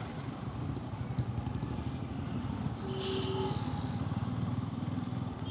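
Bajaj Pulsar N250's single-cylinder engine running steadily while the motorcycle is ridden, with road and wind noise. A brief faint tone cuts in about three seconds in.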